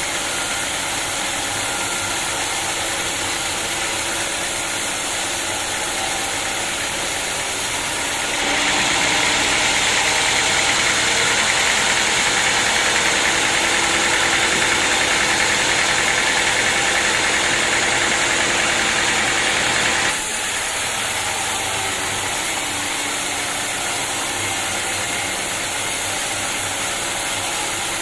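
Sawmill running steadily. About a third of the way in it grows louder and hissier for roughly twelve seconds as the saw cuts through a log, then drops back suddenly to steady running.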